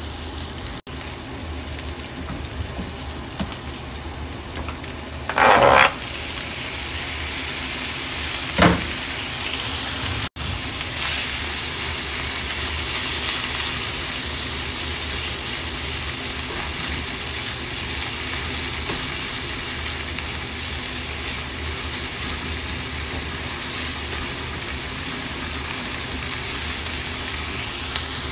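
Onion, garlic and pork pieces sizzling in hot oil in a nonstick frying pan, stirred with a plastic spatula. A brief loud noise comes about five and a half seconds in and a shorter one near nine seconds, and the sizzle grows stronger after about ten seconds.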